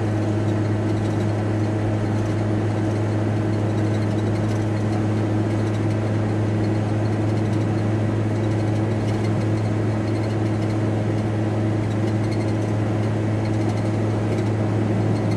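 VW T4 Transporter van heard from inside the cab while driving: a steady low engine and road drone with a constant hum, holding even pitch and level throughout.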